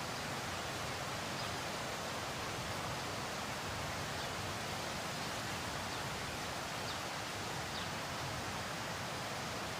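Steady rushing hiss of a rainstorm, rain and running water, with a few faint ticks.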